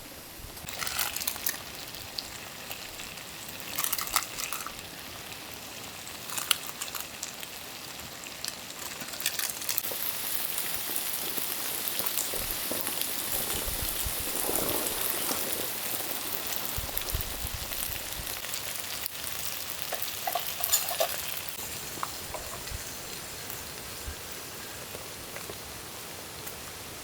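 Yaki udon sizzling on a multi griddle over a campfire, the frying hiss swelling about a third of the way in. A few sharp clacks come through it now and then.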